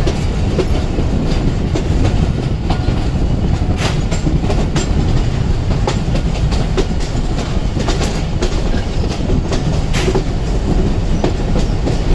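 Passenger train running on the rails, heard from aboard at the open coach doorway: a steady loud rumble with irregular sharp clicks and clatter from the wheels.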